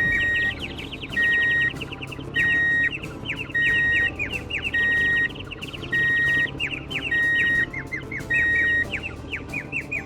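A vehicle reversing alarm beeping eight times at a steady pitch, each beep about half a second long and a little over a second apart, over continuous bird chirping.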